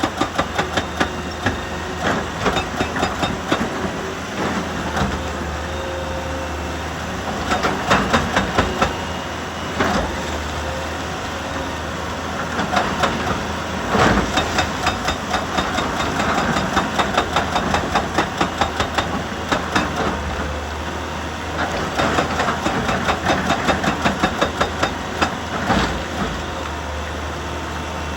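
Excavator diesel engine running steadily, with recurring bursts of rapid metallic knocking, several strikes a second, lasting a second or more each.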